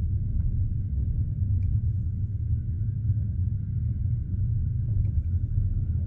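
Steady low rumble inside a passenger train carriage, with a few faint light clicks and no clear wheel-beat rhythm.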